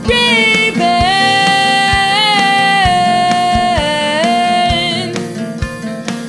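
Rock song with guitar and drums: a long held lead note that slides up and down in pitch over sustained chords, with a drum hit about once a second.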